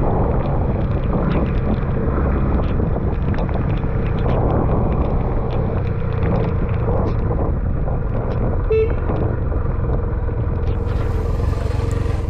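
Loud, steady wind and road noise from a motorcycle ride in rain, the wind buffeting the microphone. A short vehicle horn toot sounds about three-quarters of the way through.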